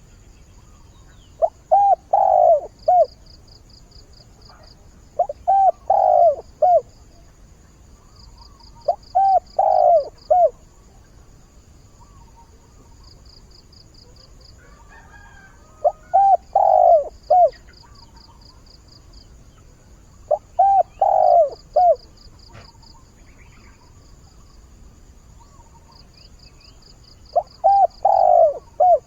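A spotted dove (cu gáy) cooing: six phrases of three or four coos, a few seconds apart, a decoy bird's call to draw in wild doves. Crickets chirp faintly in steady pulses behind.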